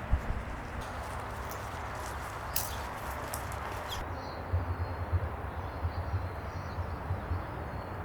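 Strong wind blowing steadily, with gusts rumbling on the microphone from about halfway through and a few sharp clicks in the first half.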